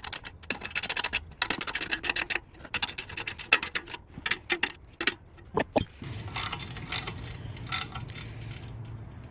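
Runs of quick, light metallic clicks and taps as wood stove parts are tapped and fitted into line. A steady low hum starts about six seconds in.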